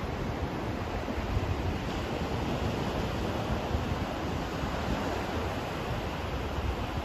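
Steady white-noise track for sleep: an even, unbroken rushing noise with its weight in the deep end and little hiss up top, with no swells or changes.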